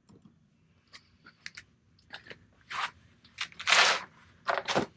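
Crinkling, crunching handling noise with scattered clicks. The loudest is a half-second rustle near four seconds in, with another just before the end.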